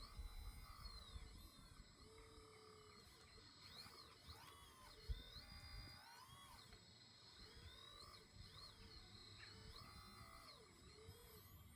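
Faint whistled bird calls in short rising and falling phrases, with a low rumble at the start and a single sharp knock about five seconds in.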